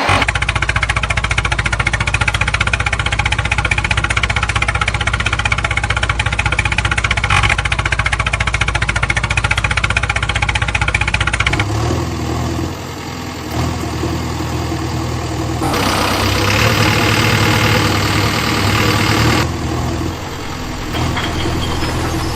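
Engine running with a fast, even chugging pulse; about twelve seconds in the sound changes abruptly to a different engine sound that swells and drops in loudness a few times.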